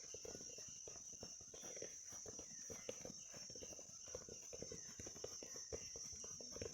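Faint, quick, irregular footsteps and taps on the ground from players on a training pitch, over a steady high-pitched hiss.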